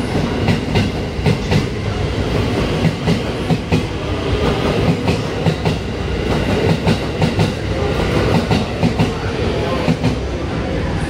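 Train on the next track pulling out past the platform, its wheels clacking over the rail joints in a quick run of clicks over a steady rumble.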